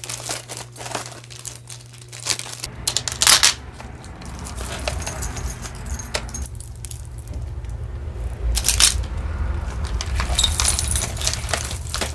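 Costume jewelry being handled and sorted: scattered clinks and rattles of metal pieces and beads, the loudest about three seconds in and again near nine seconds, over a low hum that grows from about four seconds in.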